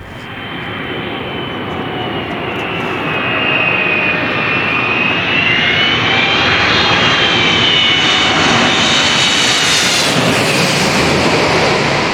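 Airliner passing low overhead: engine noise builds over a few seconds to a loud, full sound with a high whine that wavers in pitch, then eases slightly near the end.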